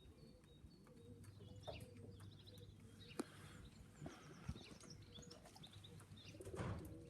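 Faint bird chirps in the background, short high notes scattered through, with a single sharp tap about three seconds in.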